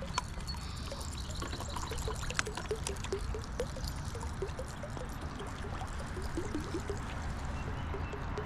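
Creek water trickling and bubbling steadily, with many small gurgles and a few faint clicks.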